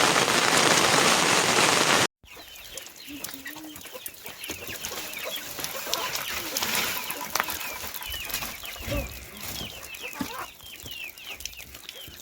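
Heavy rain pouring for about two seconds, then an abrupt cut to a quieter scene of chickens clucking, with many short, high chirps repeating through the rest.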